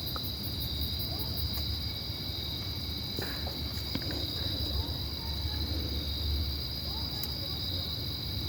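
Steady high-pitched insect trilling, with a low rumble underneath and a few faint clicks.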